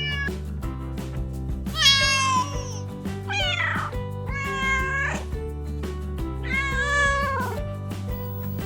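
Cat meowing four times, each meow a drawn-out call that falls in pitch at its end, over steady background music.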